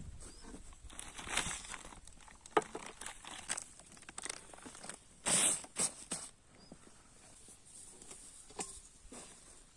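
Irregular rustling and crinkling handling noises with scattered clicks and knocks, the loudest a short dense burst about halfway through.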